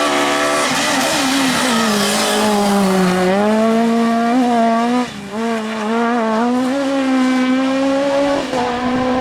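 Suzuki Swift S1600 rally car's 1.6-litre four-cylinder engine at high revs. The pitch sags about three seconds in, then holds high, with a brief lift of the throttle about five seconds in.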